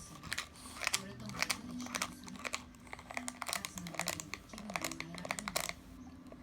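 A plastic bottle inside a dog's chew toy crinkling and crackling irregularly as a French bulldog bites and chews on it.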